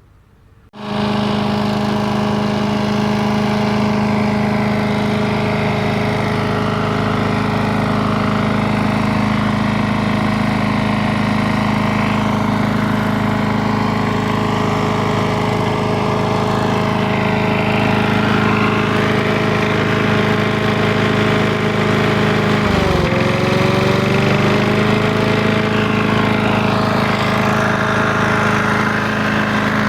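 A motor running steadily with a strong, even hum, starting abruptly about a second in. Its pitch sags briefly and recovers about 23 seconds in, as under a change of load.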